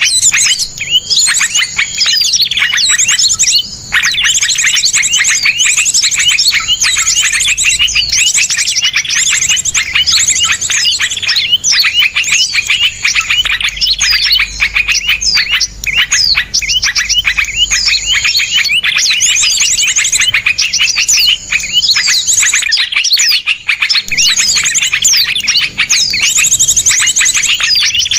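Dense, continuous chorus of small songbirds singing rapid, sharp chirps and trills, many calls overlapping with no pause. It is a layered masteran recording of harsh, fast song bursts used to teach songbirds.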